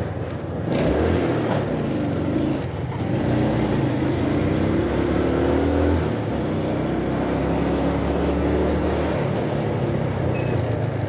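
Motorcycle engine running on the move through street traffic, its pitch rising and falling as it speeds up and eases off, over road and wind noise.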